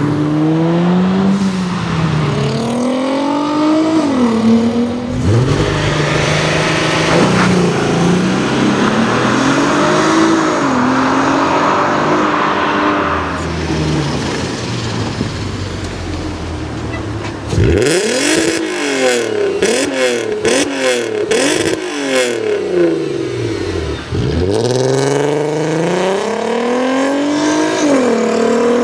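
Volkswagen engines revving hard, the pitch rising and falling again and again. About two-thirds through comes a run of quick, sharp throttle blips before longer revs resume.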